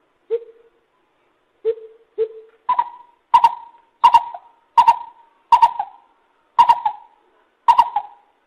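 Lesser coucal calling: a series of ten short notes, the first three lower-pitched, then seven higher ones at a steady pace of about one and a half a second.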